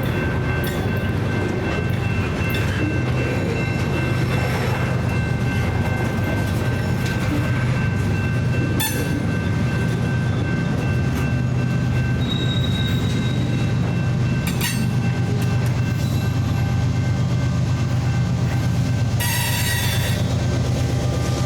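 A train rolling past with a steady low rumble of wheels on rail. There are a couple of sharp clicks and a brief high-pitched squeal near the end.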